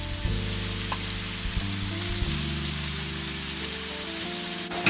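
Mixed vegetable strips sizzling steadily in hot oil in a kadhai, freshly added capsicum and carrot frying on a high flame.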